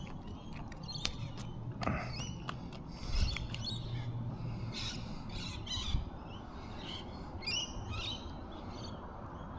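Several birds chirping and calling in quick, varied short notes, with a few sharp clicks in the first two seconds.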